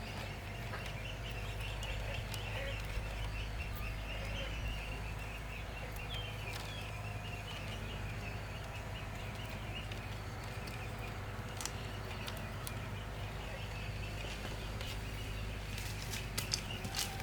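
Outdoor rural ambience: a steady high, fast-pulsing chirring over a low steady rumble, with a few faint clicks.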